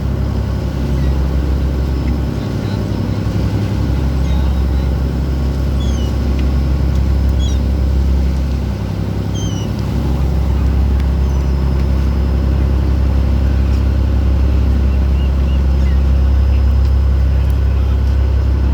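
Boat engine running steadily with a loud low drone, and a few faint short high calls of seagulls now and then.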